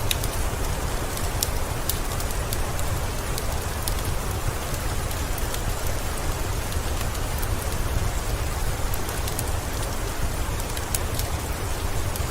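Steady rainfall: a constant hiss over a deep low rumble, with scattered sharp ticks and crackles.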